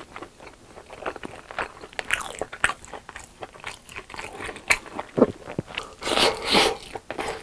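Close-miked eating: a run of crunchy bites and chewing, with a longer, louder crackling stretch about six seconds in.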